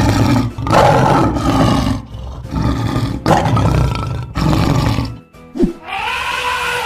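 Lion roar sound effect, several long rough roars one after another for about five seconds, over background music. Near the end comes a shorter pitched call that rises and falls.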